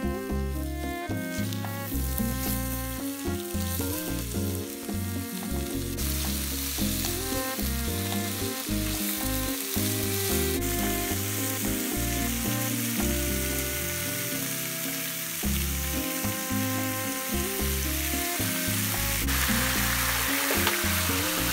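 Food sizzling and frying in a pan over a camp stove, with background music playing throughout. The sizzle gets louder in steps, about six seconds in, again around ten seconds, and loudest near the end.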